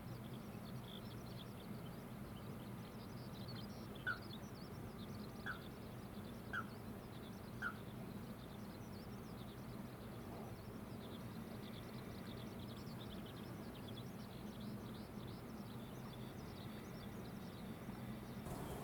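Wild birds chirping continuously, with four short, louder call notes about a second apart a few seconds in, over a steady low background hum.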